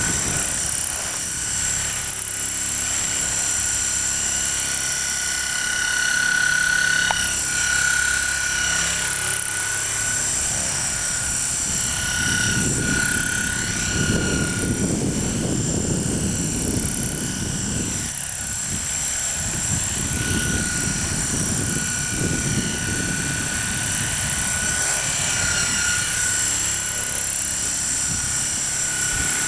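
Large RC coaxial helicopter hovering, its rotors and motor making a steady whine that wavers slightly in pitch. Wind gusts buffet the microphone with a low rumble, strongest in the middle stretch.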